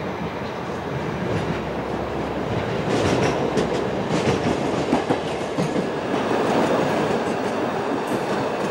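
Car-carrying shuttle train rolling past. Its wheels rumble and clatter over the track, getting louder about three seconds in, with frequent sharp clicks.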